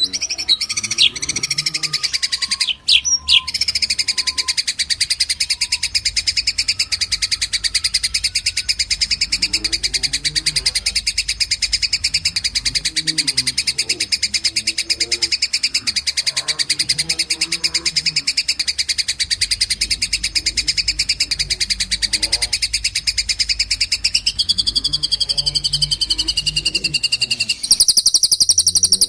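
A small songbird's rapid, unbroken high trill, a fast chattering run, with a lower gliding note around 25 s in. Near the end it gives way to a louder, different trill.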